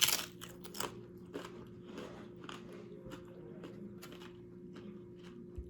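Close-up chewing of crunchy nacho tortilla chips: a loud crunching bite at the start, then irregular crisp crunches as the mouthful is chewed.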